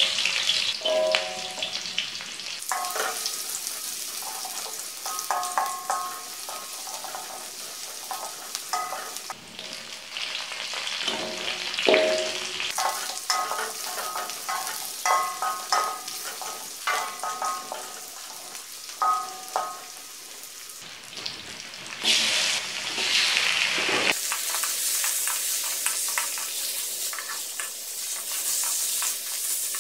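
Garlic, shallots and spices sizzling in hot oil in a wok while a metal spatula stirs, scraping and clinking against the pan. About 24 seconds in, the sizzle turns into a denser, steadier hiss as raw chicken pieces go into the oil.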